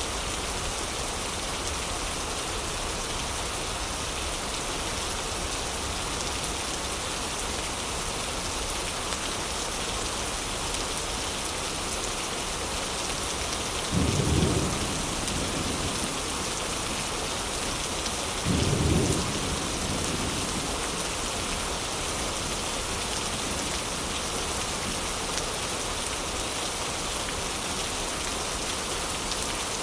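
Heavy rain falling steadily. About halfway through come two short, low rumbles of thunder, about four seconds apart.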